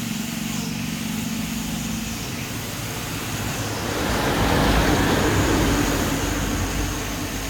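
A motor-driven machine running loudly with a steady rushing noise; an even hum fades out about two seconds in and a deeper rumble swells around the middle.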